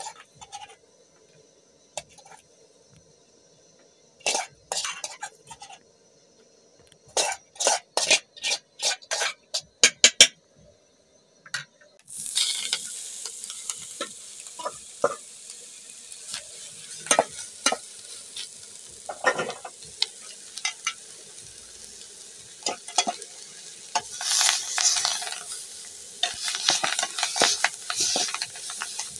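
A run of sharp knocks and clicks. Then, about twelve seconds in, a steady sizzle starts as chopped greens are scraped into a hot aluminium pot on a gas burner, and a metal spoon stirs and scrapes them against the pot while they fry.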